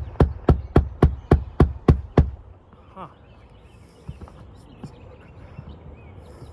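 Hand hammer driving a roofing nail into an asphalt shingle: a quick, even run of about three to four blows a second that stops abruptly about two seconds in.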